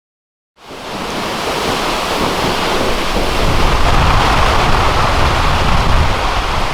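Lower Latourell Falls' water falling and splashing into its pool: a loud, steady rush that fades in about half a second in.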